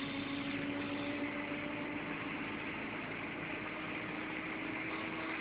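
Steady car engine hum under an even wash of noise, with no change through the stretch.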